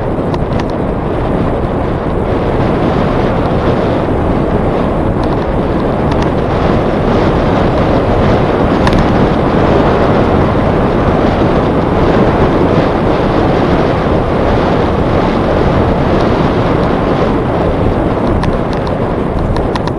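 Wind rushing over the microphone of a camera on a moving bicycle, a loud steady rush with a few faint clicks.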